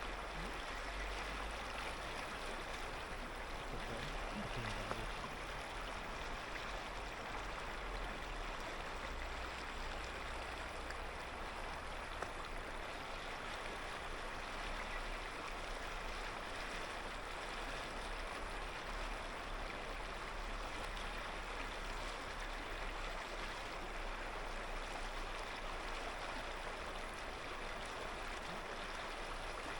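Clear mountain river flowing: a steady, even rush of running water.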